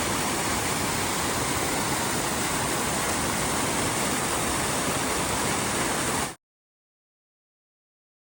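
Small waterfall rushing steadily. The sound cuts off suddenly a little over six seconds in, leaving dead silence.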